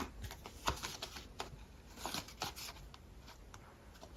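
Tarot cards being handled and drawn from the deck: a scattering of soft clicks and rustles of card stock.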